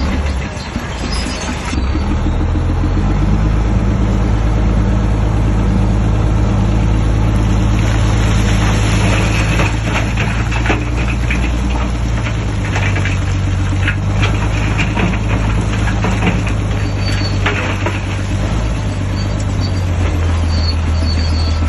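Shantui DH17C3 bulldozer working, its diesel engine running steadily under load. The engine note rises about two seconds in and changes pitch a few times after that. Irregular clanks and rattles come through in the middle stretch.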